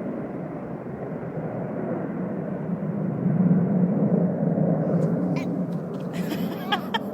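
Low rumble of an aircraft passing overhead, swelling to its loudest about three to four seconds in and then easing off.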